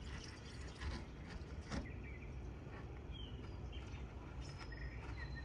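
Faint bird chirps over a steady low hum, with a few soft clicks in the first two seconds.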